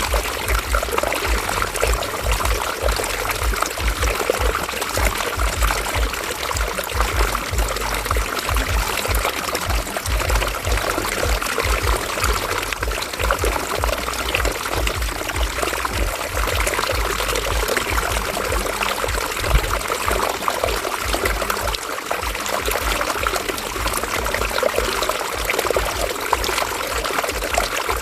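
River water running and trickling over stones, a steady splashing flow with a low rumble underneath.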